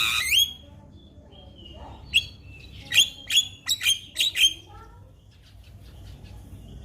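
Javan myna singing: a loud call at the start, then a quick run of about six sharp, harsh notes, each sliding down in pitch, between about two and four and a half seconds in.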